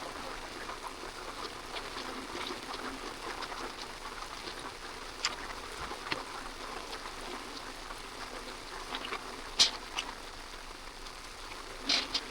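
Rain pattering steadily on a tent, a dense run of small drop ticks with a few louder, sharper drop hits about nine and a half and twelve seconds in.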